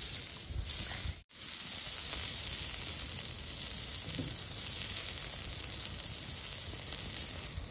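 Food sizzling steadily as it cooks over a campfire, hot enough that it looks close to scorching; the sound cuts out for an instant about a second in.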